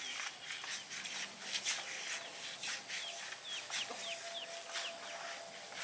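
Chickens peeping in a run of short, falling calls, with scattered light knocks and clatter.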